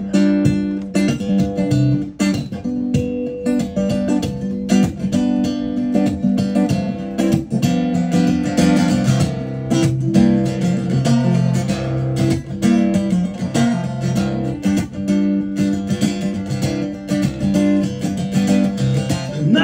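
Acoustic guitar strummed steadily, playing the instrumental intro of a blues song before the vocals come in.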